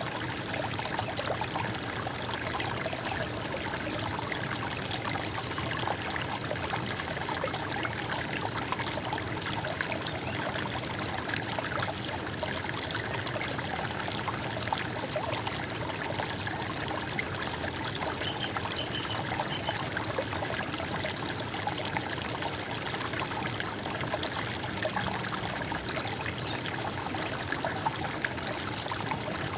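Running stream water gurgling steadily, with a few faint high bird chirps about two-thirds of the way through.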